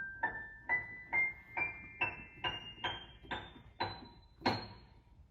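Piano playing a slow ascending line of single notes, about two a second, each a step higher than the last, ending on a louder top note about four and a half seconds in that is left to ring and fade.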